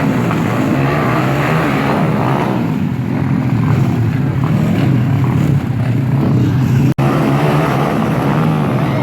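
Motocross dirt-bike engines running and revving, loud and continuous, broken by a sudden brief cut about seven seconds in.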